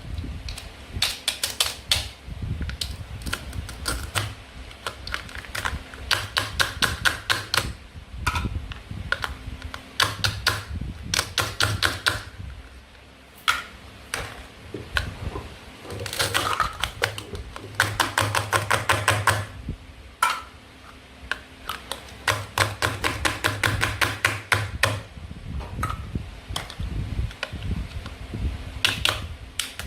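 Runs of rapid, light clicking and tapping, plastic toy food and a toy knife on a cutting board, coming in bursts of a few seconds with short pauses between.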